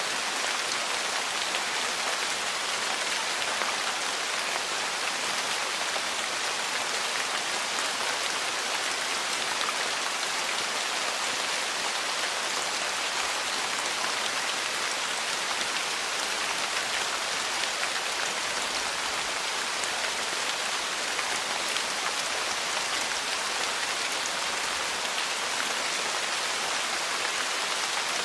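Steady rain falling, an even unbroken patter at a constant level.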